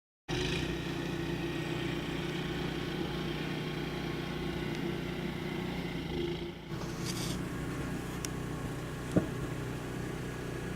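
An engine running steadily, with one sharp click about nine seconds in.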